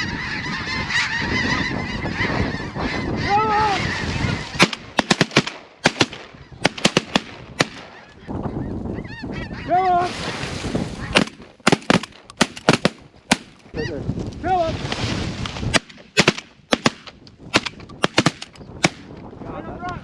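Snow geese calling: a dense, steady chorus of honks for the first few seconds, then thinning to single honks. Many short, sharp knocks come in clusters through the rest.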